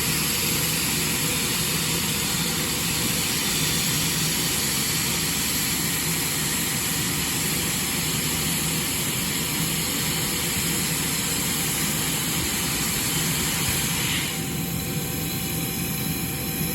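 Hawker Siddeley Nimrod's Rolls-Royce Spey turbofan engines running on the ground during an engine run, a steady loud rush with a high whine. About 14 s in the noise drops a little and a new steady tone comes in, with tones rising in pitch near the end as the engines change power.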